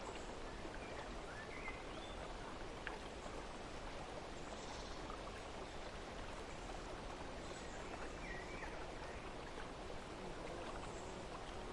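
Steady rush of running water, with a few faint bird chirps over it.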